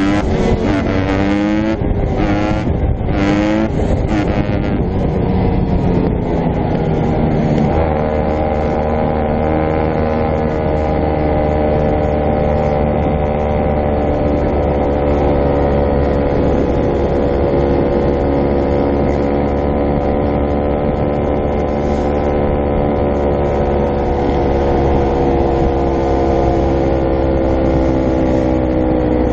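Dirt bike engines revving up and down for the first few seconds, then settling into a steady engine note held at an even speed for the rest of the time.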